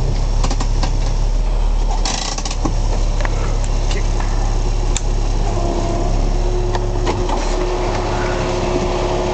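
A truck engine running with a loud, steady low drone, a few clicks and rattles over it. A brief hiss comes about two seconds in, and a steady whine joins the drone about halfway through.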